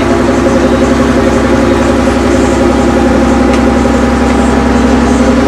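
A large engine running steadily at constant speed, a loud, even drone.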